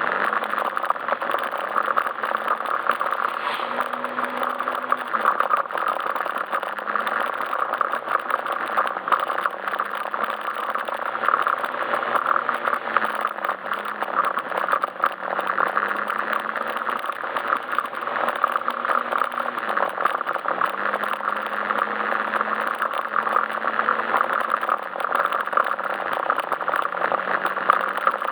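Yamaha Majesty S scooter's single-cylinder engine running under way, its pitch drifting gently up and down with the throttle. Dense road and wind noise with a constant light rattle runs under it.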